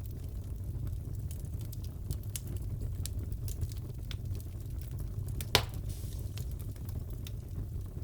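Crackling wood fire in a fireplace: a steady low rumble scattered with small pops and snaps, and one louder pop about five and a half seconds in.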